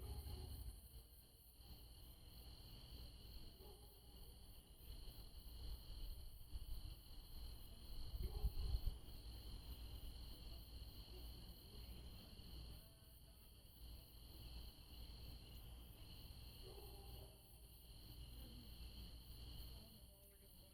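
Faint, steady chorus of night insects such as crickets, holding two high tones, over a low rumble that swells about eight seconds in.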